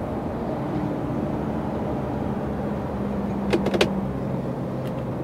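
Truck engine running steadily as the truck drives, a low hum whose pitch shifts slightly. A quick run of about four clicks comes about three and a half seconds in, and one more click near the end.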